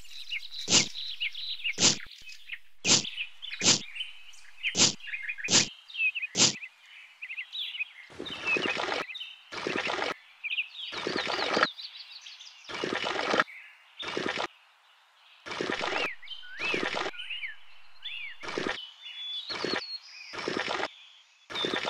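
Sharp pops about once a second as seeds are dropped into holes in sand, then a dozen or so short splashes as water is poured from a tiny clay cup onto the seeded holes, with bird chirps running underneath.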